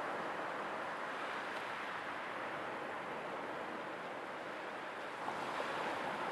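Sea waves washing onto a shore: a steady hiss of surf that eases slightly in the middle and swells again about five seconds in.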